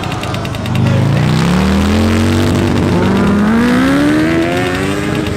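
Motorcycle engine revving hard as it accelerates. It gets louder about a second in, and its pitch climbs steadily for about three seconds.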